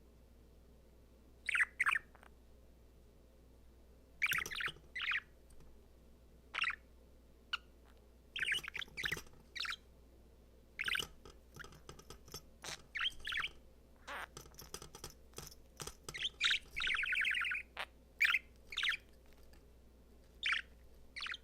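Male budgerigar (budgie) chirping and warbling in short, scattered bursts, with a rapidly pulsed, buzzy call lasting about a second two-thirds of the way through.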